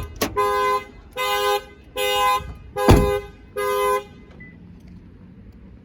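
A car horn sounding in a regular alarm pattern: about five half-second two-tone honks, a little under a second apart, stopping about four seconds in. A sharp thump comes about three seconds in.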